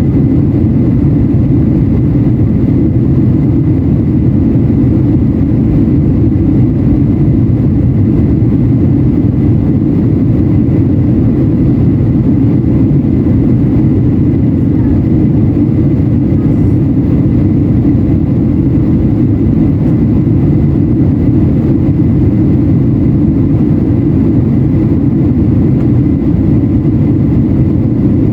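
Steady, loud low roar inside the cabin of a Boeing 737-800 in flight, from its CFM56 jet engines and the airflow around it, with a faint thin steady whine above it.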